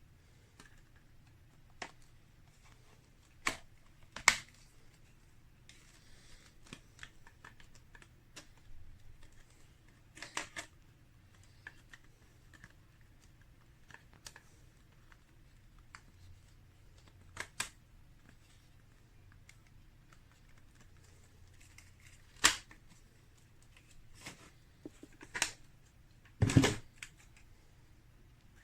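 Scattered clicks and knocks from objects being handled, irregular and a dozen or so in all, the loudest about four seconds in and twice near the end, over a faint steady hum. The vacuum motor is not running.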